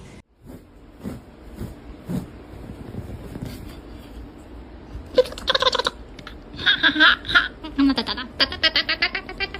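A person laughing in bursts that start about halfway through, quickening into short rapid pulses near the end; a few soft knocks come before.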